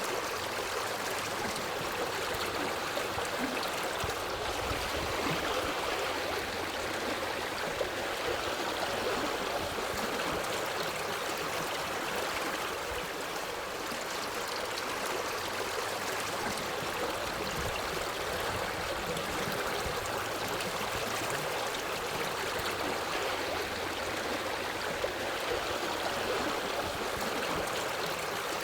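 Forest stream flowing steadily, a continuous even rush of water with no let-up.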